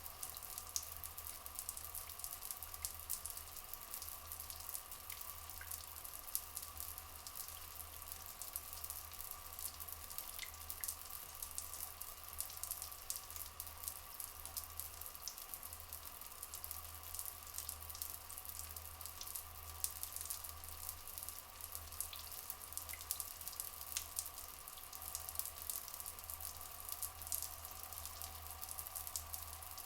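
Water flowing and trickling, a steady patter of many fine drips, with a few brief, faint bird chirps now and then.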